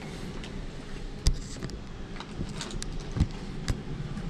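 Newly installed HVAC system running in heat mode with a steady low hum, while a few sharp clicks and knocks come about a second in and twice more near the end.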